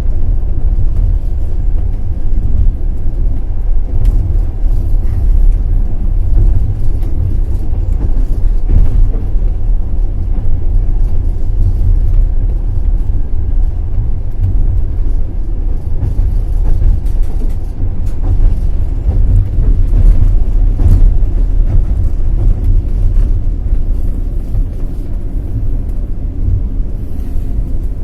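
Passenger train running at low speed: a steady low rumble of the carriage on the track, with a few faint knocks of the wheels over the rails.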